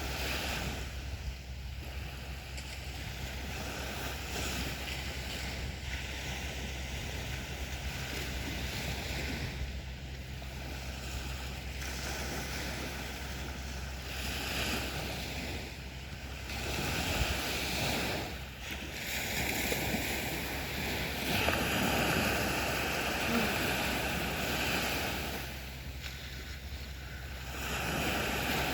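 Sea waves breaking and washing up a beach: a continuous rush of surf that swells and eases several times, loudest in the second half.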